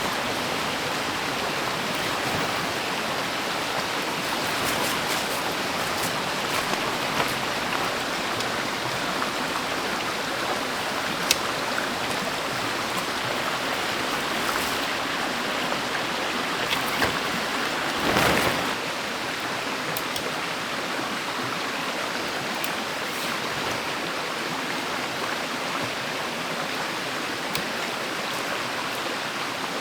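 Mountain stream water rushing steadily, with a few small clicks and a brief louder rustle about 18 seconds in.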